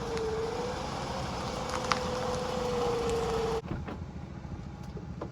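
Toyota Camry driving, a steady hum of engine and road noise with a faint click a little under two seconds in. About three and a half seconds in the sound drops abruptly and gets quieter.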